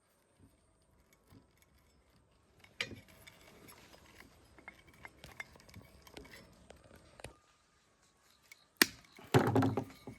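Scattered light metallic clinks and small knocks, as of metal tools and parts being handled, then a sharp knock about nine seconds in and a louder clatter near the end.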